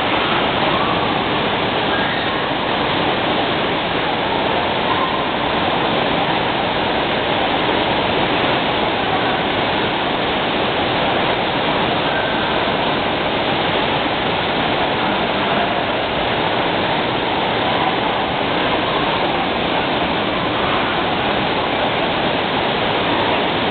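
Steady, unbroken rush of falling and splashing water at a water park.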